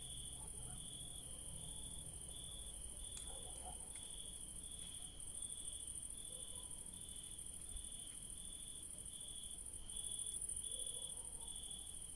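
Crickets chirping at night in two layers: a steady, high-pitched trill, and a lower chirp repeating a little under twice a second. The high trill swells louder briefly twice.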